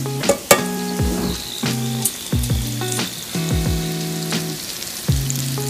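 Breaded mozzarella sticks sizzling as they shallow-fry in hot oil, under background music with a low bass line and deep kick drums.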